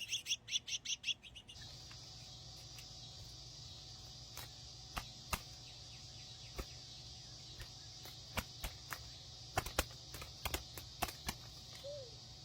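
Small birds chirping in rapid, high twitters for about the first second and a half. After that comes a steady high hiss, with scattered sharp clicks.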